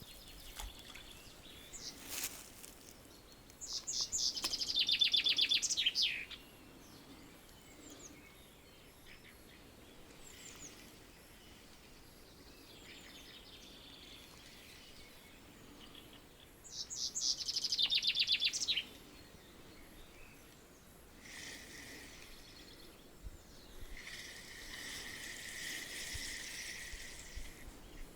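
A songbird singing two loud phrases, each about two seconds of rapid repeated high notes, about four seconds in and again near seventeen seconds. A steady high hiss comes in near the end.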